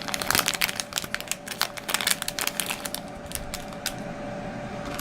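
Plastic packaging crinkling and crackling as it is handled, a quick run of crackles over the first three seconds that thins out to a few after, over a steady hum.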